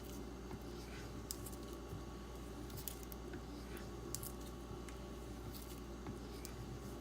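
D2-steel Benchmade Griptilian blade being stropped on a strop loaded with 0.25 micron diamond paste: faint short swiping strokes with scattered light ticks over a steady low hum.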